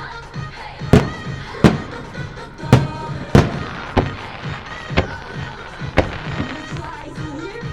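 Aerial fireworks bursting in a rapid series of sharp bangs, about one a second, over pop music played for the show.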